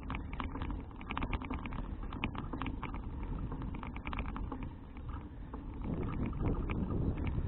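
Wind buffeting the action-cam microphone while riding a folding bicycle, over a low rumble from the tyres and road, with frequent irregular clicks and rattles from the bike. It grows louder over the last second or so.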